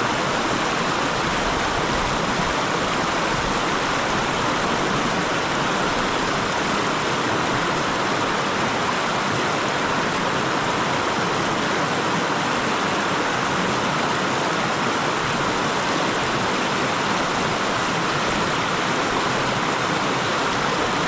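Mountain stream water rushing steadily over rocks, an even, unbroken wash of sound.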